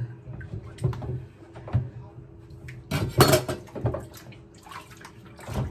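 Irregular knocks and clatter of whetstones and a knife being handled and set down at a sink, with a louder clattering burst about three seconds in.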